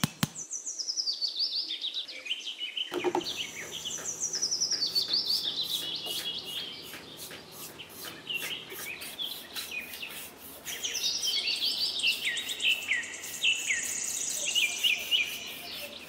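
Birds chirping in quick, high notes that fall in pitch in repeated cascading trills.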